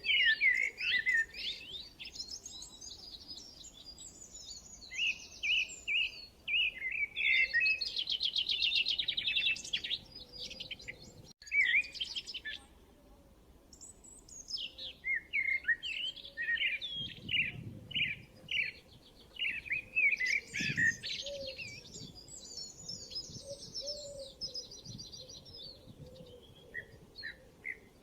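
Several songbirds chirping and singing, with quick rattling trills; the calls thin out for a couple of seconds about halfway before picking up again.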